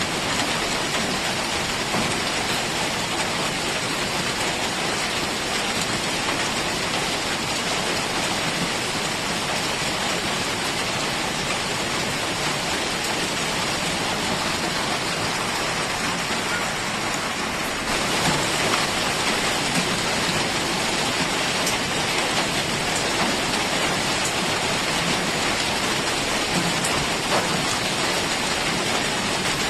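Heavy rain falling steadily, with a dense hiss of drops on surfaces; it grows a little louder about two-thirds of the way through.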